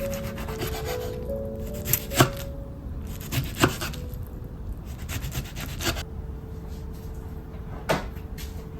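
A few sharp, irregular knocks and some rubbing of food prep on a wooden cutting board. Soft background music with held notes plays underneath.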